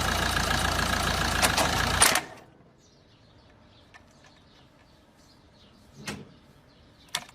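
Steady vehicle running noise with a deep rumble and a thin steady tone for about two seconds, then it cuts off to near silence. A faint knock about six seconds in and a short click near the end.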